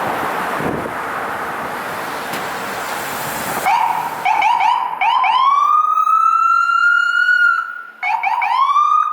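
A steady rushing noise, then about three and a half seconds in an emergency vehicle's electronic siren starts with a few short rising chirps and goes into a wail that climbs and holds. It breaks off briefly near the end and climbs again.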